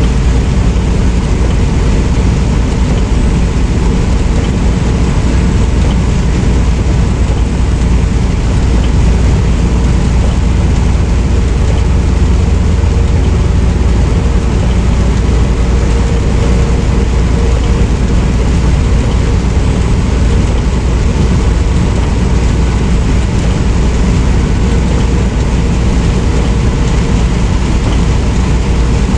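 Semi truck under way, heard from inside the cab: a steady engine drone mixed with road and tyre noise, unchanging throughout.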